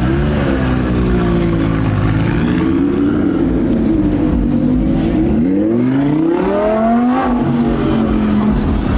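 A car engine running and being revved, its pitch climbing steeply about five and a half to seven and a half seconds in, then falling back.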